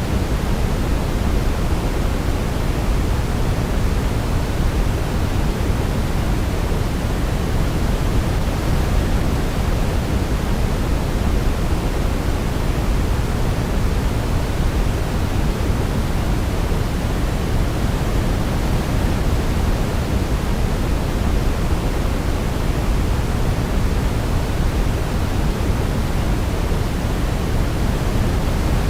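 Steady, unchanging pink noise, a deep even hiss strongest in the low end, played as a sleep sound for babies.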